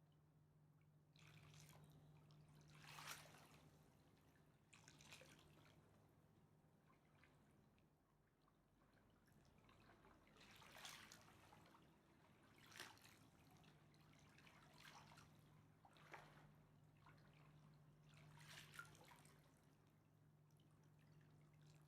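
Faint river water lapping at the shore, soft splashes coming every couple of seconds over a steady low hum.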